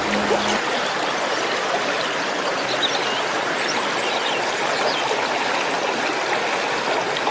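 Steady rushing of running water, like a stream, with a few short high chirps over it. A held musical note fades out about half a second in.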